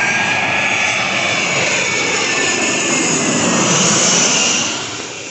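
Jet airliner on landing approach passing low and close, a loud engine noise with a whine that slides slowly down in pitch, building to its loudest about four seconds in and then fading away.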